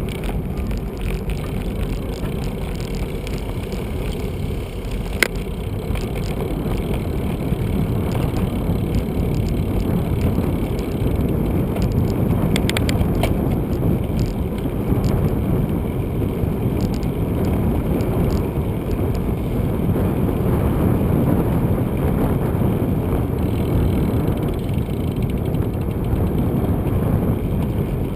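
Bicycle being ridden along a town road: a steady low rumble of tyre and road noise with air over the microphone, broken by a sharp click about five seconds in and a short patter of ticks near the middle.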